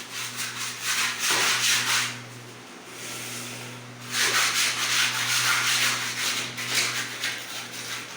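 A plaster wall being rubbed down by hand in quick back-and-forth strokes, the abrasive scratching of surface prep before painting. It eases off about two seconds in and picks up again about two seconds later.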